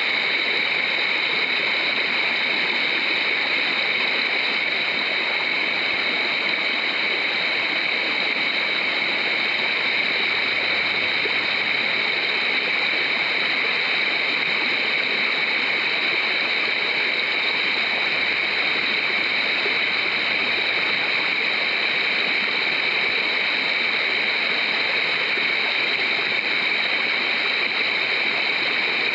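Creek water running steadily: a constant, even rushing with no breaks.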